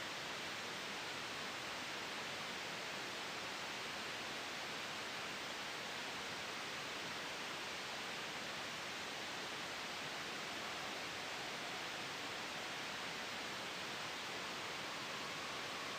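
Steady, even hiss of soft white noise blended with a gentle wind sound, with no changes in level. A faint whistle-like tone comes in near the end.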